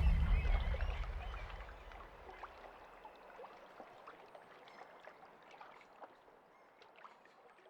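Water gurgling, trickling and dripping in small scattered drops, the sound of a paddle or board in calm water, fading out near the end. A low rumble at the start dies away over the first two seconds.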